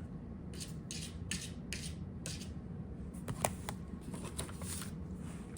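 Short scratchy strokes across paper, several in a row, as ink is spread out into a splat swatch, with a couple of sharp clicks about halfway through.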